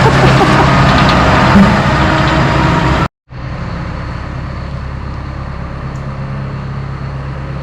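Tractor diesel engine running loud and close, then, after an abrupt cut about three seconds in, a tractor engine idling more quietly and steadily.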